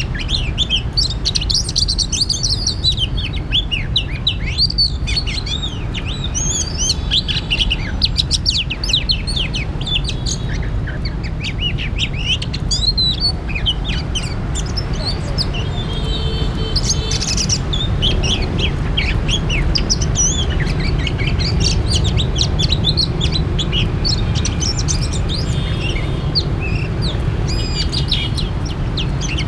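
Oriental magpie-robin singing: a continuous run of varied, quick whistled notes and phrases. A steady low rumble sits underneath.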